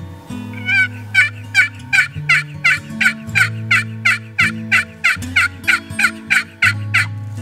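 A long, even series of turkey yelps, about three a second, each note raspy and dropping in pitch, over background guitar music.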